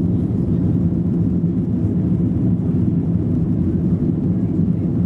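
Steady, loud, low-pitched engine and airflow noise inside the rear cabin of an Airbus A321 with its engines at high thrust.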